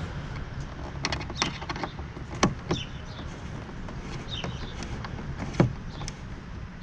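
Clicks and clinks of bolts, washers and hand tools while a windscreen is bolted onto a motorcycle. There are scattered light clicks and two sharper knocks about two and a half and five and a half seconds in.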